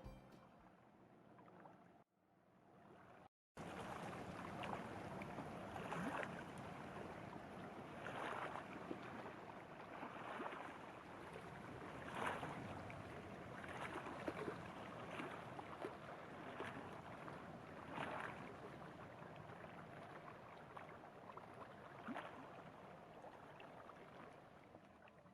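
Faint outdoor ambience: a steady, noisy hiss with soft rustles every second or two. It starts a few seconds in, after a brief dropout.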